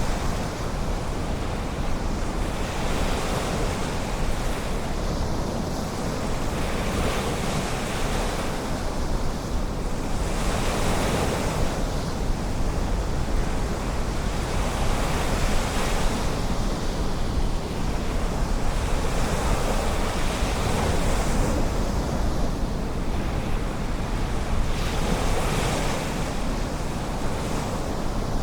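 Ocean waves breaking and washing onto the beach, the surf rising and falling every few seconds, with wind rumbling on the microphone.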